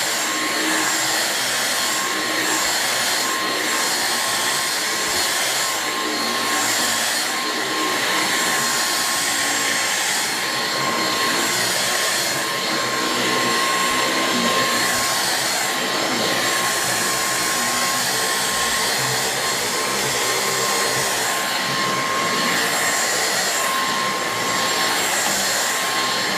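Dyson V6 Absolute cordless stick vacuum running steadily over carpet, with a constant high motor whine. The rushing noise swells and fades every second or so as the head is pushed back and forth.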